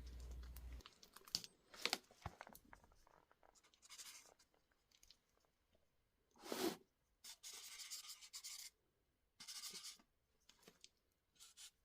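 Faint, intermittent scratching of a pen on paper in short strokes, with a few light clicks.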